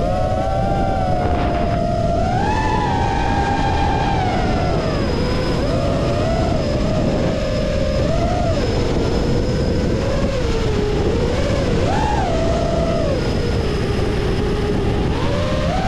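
FPV racing drone's motors whining, the pitch rising and falling as the throttle changes, over heavy wind noise on the microphone.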